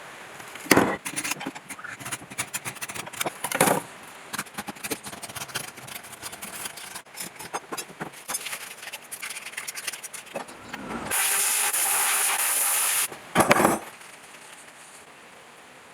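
Metal parts and tools knocking and clicking at irregular intervals during work on a motor. A steady hiss starts a little after eleven seconds in and lasts about two seconds; it is the loudest sound. A few knocks follow it.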